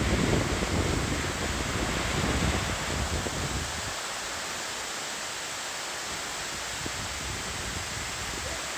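Steady rushing hiss of a waterfall's falling water, with wind buffeting the microphone for the first three seconds or so before it settles.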